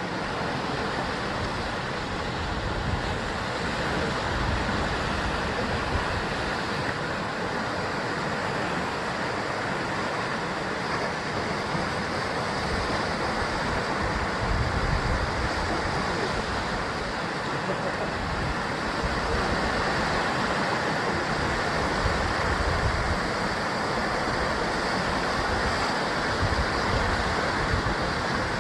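Sea waves breaking and washing against a rocky shore in a steady, continuous rush, swelling a little now and then.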